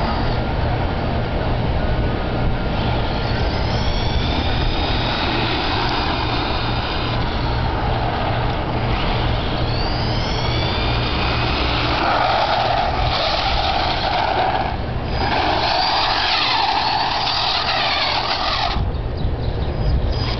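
Brushless electric motor of a Redcat Racing Volcano EPX 1/10 RC monster truck, whining up and down in pitch as it speeds up and slows down. A loud hiss from about twelve seconds in to about nineteen seconds, over a steady low rumble.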